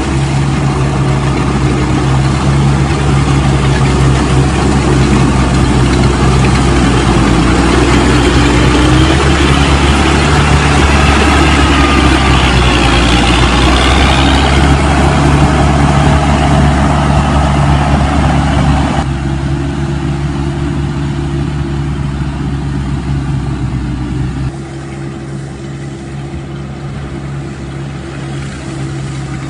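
Rice combine harvester's engine running steadily, with wavering whines in the middle. It drops in level about two-thirds of the way through and again near the end.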